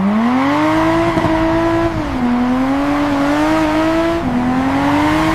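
Car engine accelerating hard through the gears: its note climbs, drops sharply at an upshift about two seconds in and again about four seconds in, then climbs once more.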